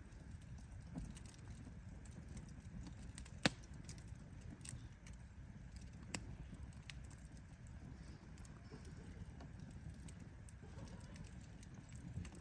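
Firewood burning in a campfire: a low steady rush of flames with sharp, irregular crackles and pops every second or two, the loudest about three and a half seconds in.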